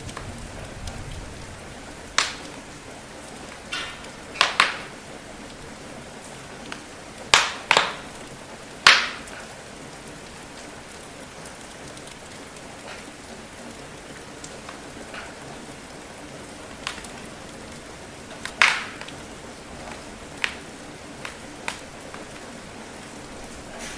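Steady rain hiss with a wood fire crackling over it: about a dozen sharp, irregular pops, several close together in the first ten seconds and another cluster near the end. A low rumble of thunder dies away in the first second.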